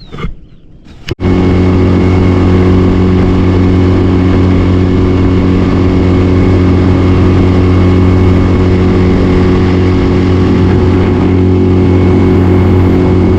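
Boat's outboard motor running steadily at cruising speed, heard from on board as a loud, even hum. It cuts in abruptly about a second in.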